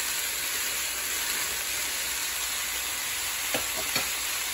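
Diced chicken and freshly added sliced peppers and onion sizzling in a hot skillet, a steady frying hiss. Two light knocks near the end.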